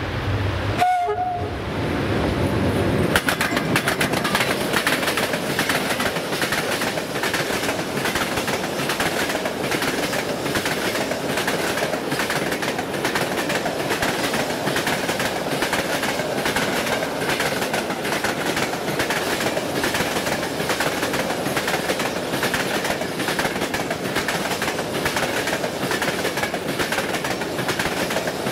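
A train passing close by: a short horn note about a second in, then the wheels clattering rapidly over the rail joints as the cars roll past for the rest of the time.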